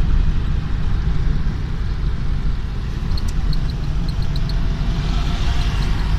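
Road traffic noise with a heavy, continuous low rumble of running vehicles. A quick series of short, high ticks comes about halfway through.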